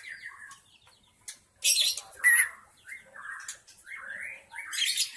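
White-rumped shama (murai batu) calling: short whistled notes sweeping up and down, broken by loud harsh, rasping calls, two close together about a second and a half in and another near the end.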